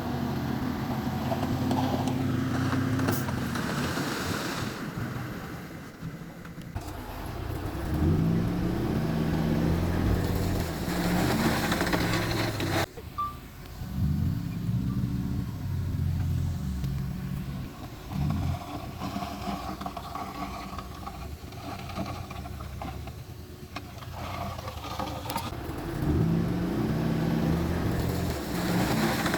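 Heavy diesel machinery engines, bulldozer and dump trucks, running and working under load, their pitch rising and falling, with a sudden break about 13 seconds in.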